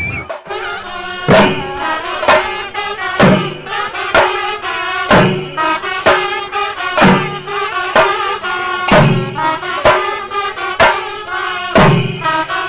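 Kerala thambolam band music: loud percussion strikes about once a second, steady and even, over a held melodic line.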